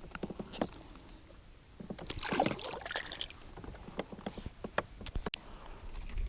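Water splashing and scattered knocks as a caught kerandang fish is released back into the water, with a longer splashy stretch about two seconds in.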